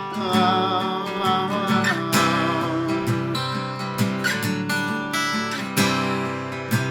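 Acoustic guitar strummed in a steady rhythm, playing an instrumental passage of a slow ballad with no singing.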